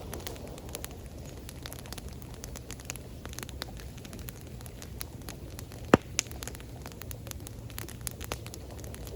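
Wood campfire crackling with many small irregular pops and one loud pop about six seconds in, over a steady low rumble.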